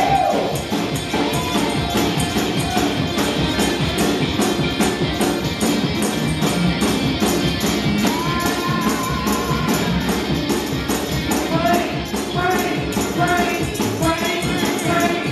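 Live gospel praise-break music: a fast steady beat driven by tambourine, with voices singing and shouting over the band.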